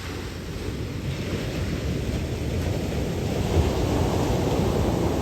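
Ocean surf, swollen by a typhoon swell, washing in as a steady rush, with wind rumbling on the microphone; it grows louder over the first few seconds.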